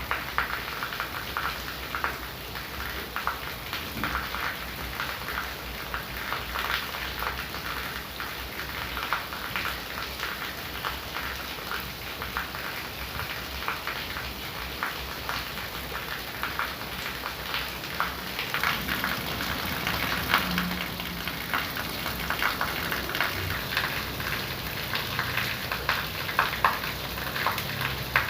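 Heavy rain pouring down steadily, dense drops pattering on a hard surface.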